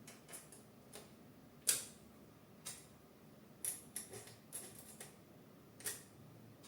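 Light, irregular clicks and taps of hard printer parts being handled during assembly, about ten in all, the sharpest one about a second and a half in.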